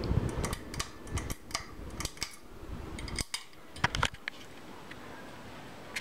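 Hunter Ridgefield II ceiling fan running steadily, with a string of sharp, irregular clicks and rattles over the first four seconds.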